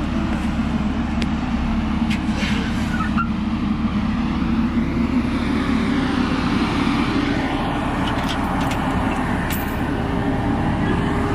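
Heavy diesel truck engine running steadily while the truck is backed up into position.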